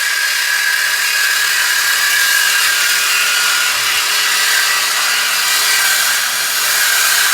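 A power tool cutting metal exhaust pipe: a loud, steady, high-pitched grinding hiss with a faint steady whine in it.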